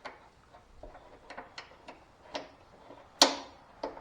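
Metal mower parts and hardware being handled and fitted by hand: a run of small, irregular clicks, then a sharp, ringing metal clink about three seconds in and a smaller one just before the end.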